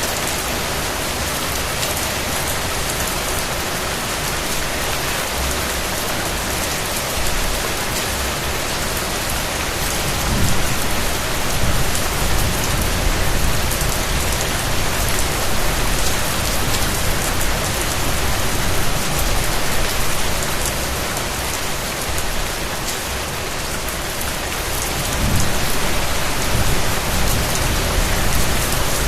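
Steady rain falling, an even hiss of many drops, with a low rumble swelling twice: about a third of the way in and again near the end.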